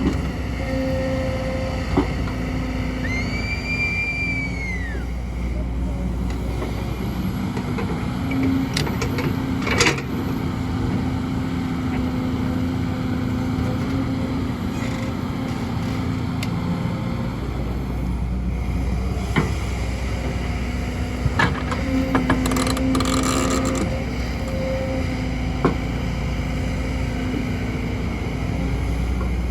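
Kobelco excavator's diesel engine running steadily under hydraulic load, its pitch swelling and easing, with occasional sharp knocks of the bucket on rock. A brief squeal rises and falls about three seconds in.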